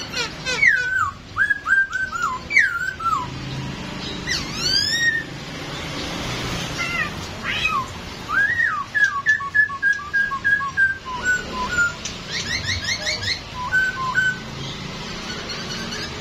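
Poksay Hongkong laughingthrush singing a string of loud, clear whistled phrases with notes slurring up and down. Partway through comes a run of short repeated notes, then a quick burst of rising notes.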